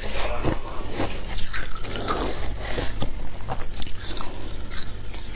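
Close-miked biting and crunching of freezer frost ice, a rapid irregular series of crisp crunches, over a steady low hum.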